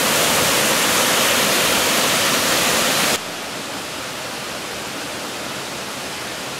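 Waterfall rushing steadily; the rush drops abruptly to a quieter level about three seconds in.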